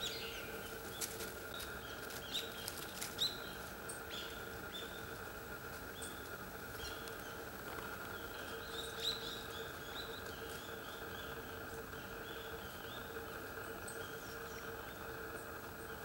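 Scattered short, high call notes from small birds throughout, with a few sharp clicks in the first few seconds and again about nine seconds in, over a steady background hum.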